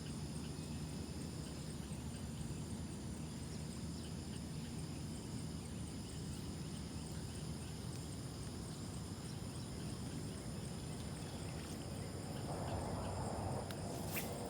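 Outdoor pond ambience: insects chirring steadily in a high pitch over a low, even background noise, with a short rustle and a sharp click near the end.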